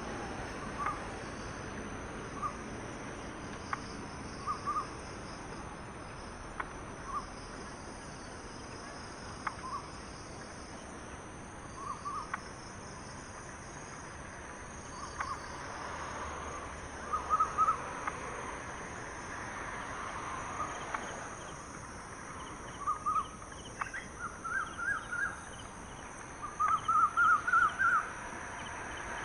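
Short, repeated animal calls: single notes and quick runs of several notes over a steady background hiss, with the loudest runs near the end.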